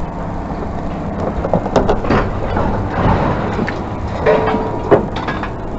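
Steady low engine rumble with a few scattered sharp knocks and clanks.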